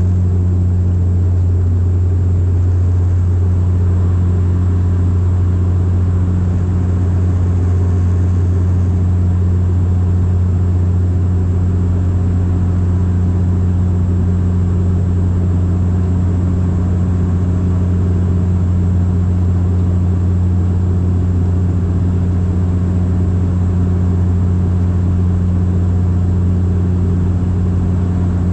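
Bombardier Dash 8 Q400 turboprop in flight, heard inside the cabin: a steady, loud propeller drone with a deep, even hum over engine and airflow rumble.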